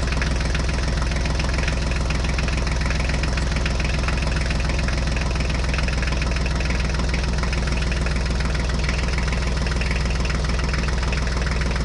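An engine idling steadily, low and even, with a fast, regular firing rhythm that doesn't change.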